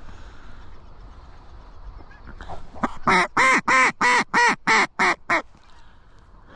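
Mallard hen duck call blown by a hunter: a series of about nine loud quacks over two and a half seconds, the last notes shorter, calling to a passing flock.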